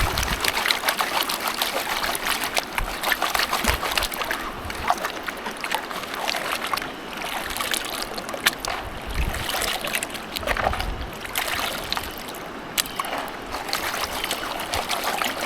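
Gold pan being worked in river water: water sloshing and splashing, with many small sharp clicks of gravel knocking in the pan.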